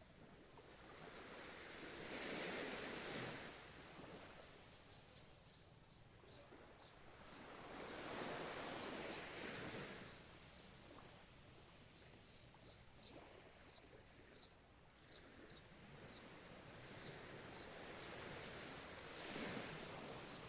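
Ocean waves breaking and washing in, three swells of surf with lulls between them. Faint rapid high chirping comes in the lulls.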